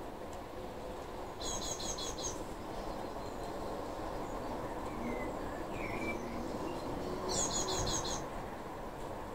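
A bird twice gives a quick run of rapid high chirps, about a second and a half in and again near the end, over a steady low background hiss.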